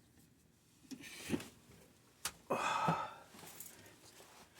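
A few small clicks and taps of hands handling wires and a screw terminal on a pressure switch, with a short breathy exhale about halfway through.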